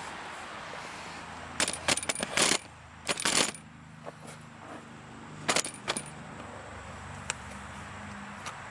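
Sharp clicks and rattling clatter of small hard parts being handled, in a busy cluster about two to three seconds in and a shorter one near six seconds, with a few faint ticks after.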